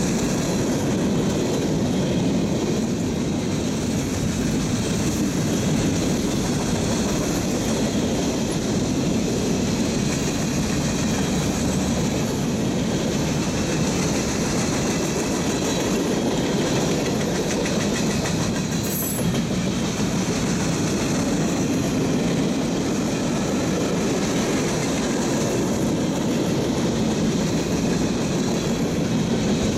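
Freight train of boxcars and covered hoppers rolling past: a steady rumble of wheels on the rails with a clickety-clack over the rail joints. A brief high-pitched squeak comes about two-thirds of the way through.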